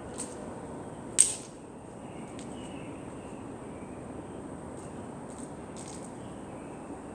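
A single sharp pop from a small novelty firework about a second in, dying away quickly, with a few much fainter clicks around it.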